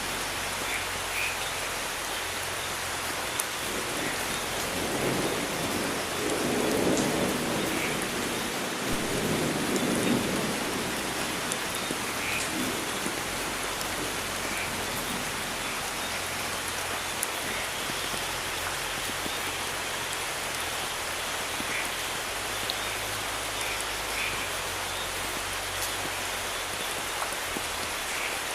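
Steady rain falling, with scattered drop ticks, and a rumble of thunder that swells from about four seconds in and dies away after about ten.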